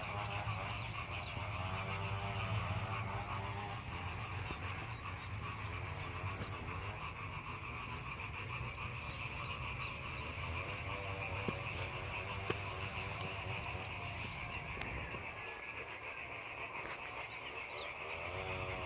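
Frogs and insects calling together in a continuous chorus, a steady shrill trill over a layer of wavering, repeated croaking calls.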